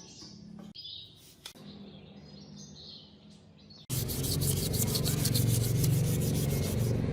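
Abrasive sanding of a part: light rubbing at first, then loud, fast rasping strokes from about four seconds in.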